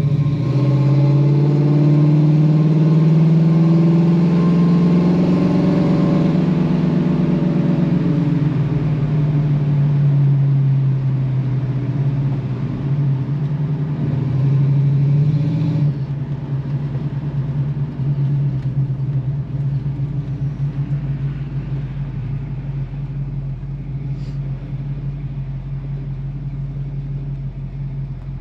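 1964½ Ford Mustang F-code 260 V8 pulling under way, heard from inside the car, its note rising a little, then dropping to a quieter, steady cruise about halfway through. The engine has a mild cam that gives it a slightly lumpy but not aggressive sound.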